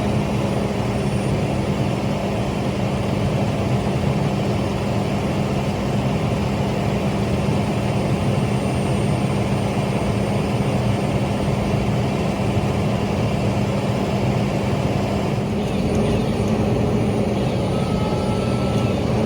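Steady engine drone with a constant low hum, running evenly without revving.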